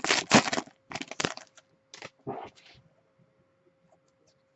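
Basketball card packs and cards being handled: a quick run of crinkling and crackling that thins out after about a second and dies away by about three seconds in.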